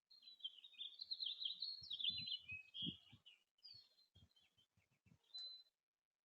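A small songbird sings a fast, jumbled warbling song for about three seconds, followed by scattered short chirps. Soft low thuds sound underneath during the song.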